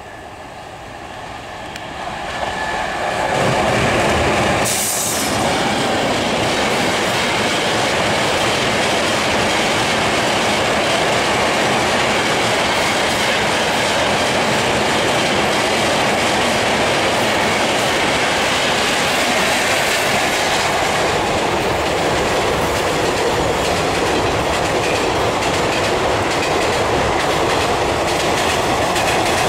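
Express passenger trains passing close at speed: a steady rumble and clatter of coach wheels on the rails. It swells over the first four seconds and then holds loud, with a brief rush of hiss about five seconds in.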